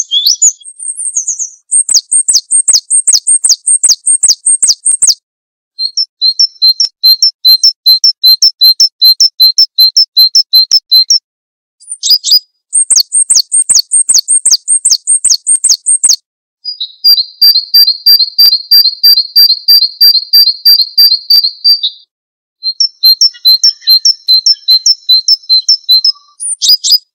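Small songbirds singing in a run of loud phrases of fast, evenly repeated high chirps, about four or five a second. Each phrase lasts a few seconds, with short pauses between them, and the pitch and pattern change from phrase to phrase.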